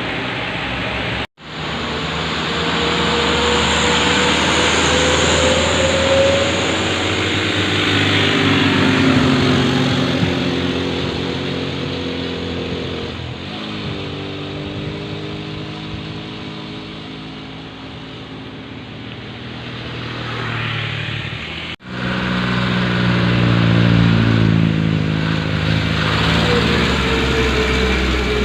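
Diesel engines of loaded dump trucks labouring up a steep bend, their pitch rising and falling. The sound drops out sharply for an instant twice.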